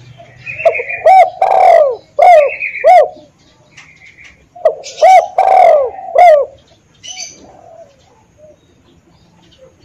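A spotted dove (tekukur) cooing: two phrases of short, arched coos, the first starting about half a second in and the second about five seconds in. Fainter chirps from smaller birds are heard between them.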